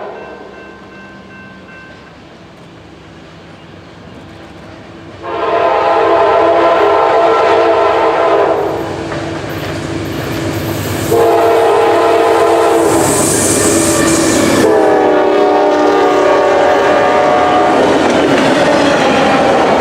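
Freight locomotive air horn sounding long blasts as the train approaches, its chord sliding down in pitch as the locomotive passes. Then the rumble and clickety-clack of the freight cars rolling by.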